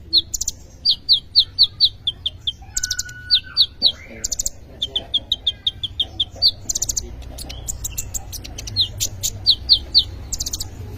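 A kolibri ninja sunbird singing in rapid runs of short, sharp, high chirps, mixed with brief clicking notes. This is the full, busy song that bird keepers prize. A low steady hum lies underneath.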